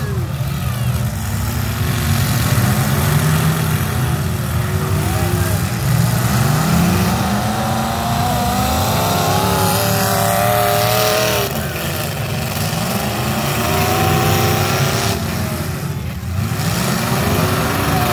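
Many demolition derby cars' and pickups' engines revving hard at once, several pitches rising and falling over each other.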